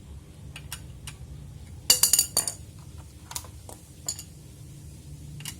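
Metal parts and tools clinking while being handled during repair work on a machine. There are scattered light clicks, and a quick run of sharp ringing clinks about two seconds in, over a steady low hum.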